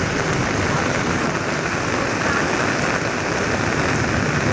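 Heavy monsoon rain pouring down, mixed with the rush of flash-flood water running through a street. It is a loud, steady hiss and rush with no breaks.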